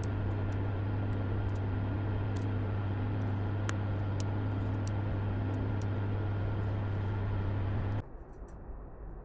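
A vehicle engine running at a steady pace, a constant low drone with road or running noise over it and a few faint ticks. It cuts off abruptly about eight seconds in, leaving a quieter, duller background.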